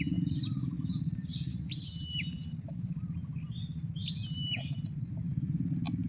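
Small birds chirping in quick, high repeated calls over a steady low rumble.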